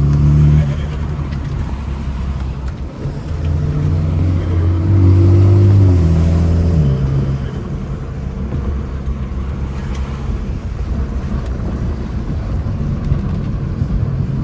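BMW F30 328i's turbocharged four-cylinder engine under way, climbing in pitch under acceleration from about four seconds in, then dropping back about seven seconds in as the throttle eases or a gear changes. After that the car cruises with a steady low engine drone and road noise.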